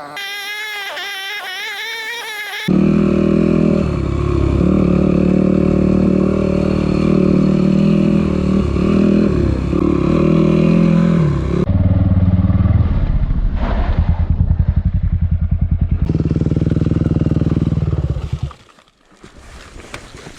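Yamaha WR250F single-cylinder four-stroke enduro engine running loud and revving up and down, then cutting off sharply near the end. Before it starts, a wavering, whine-like pitched sound is heard for the first few seconds.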